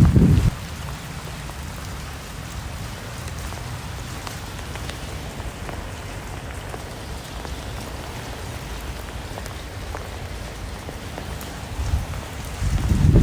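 Steady rain falling, with scattered individual drops ticking. A low rumbling comes in the first half-second and again near the end.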